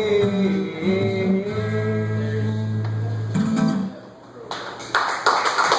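Acoustic guitar playing the song's closing bars, held notes ringing out and dying away about four seconds in. About half a second later comes a burst of irregular claps.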